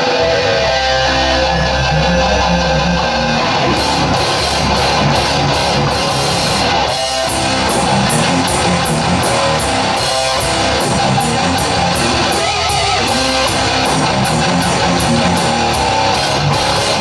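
A rock band playing live: an electric guitar riff over a held low bass note, with a steady beat of sharp strokes coming in about four seconds in.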